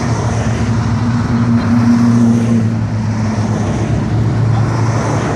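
Classic car engine running as the car cruises slowly past, a steady low engine note that is loudest about two seconds in.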